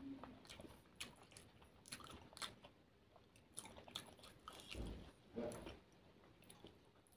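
Faint close-up chewing of a last mouthful of rice and fish curry with the mouth closed: soft wet mouth clicks throughout, a little louder about five seconds in.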